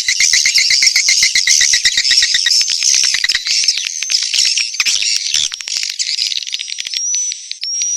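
Recorded swiftlet calls: fast clicking trills and harsh twittering chirps, thinning out about halfway into scattered chirps and short high whistled notes. This is a swiftlet-farming lure call, played to draw edible-nest swiftlets into a nest house.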